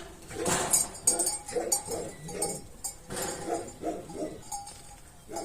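Farm animals calling in a run of short pitched calls, with sharp metallic clinks among them.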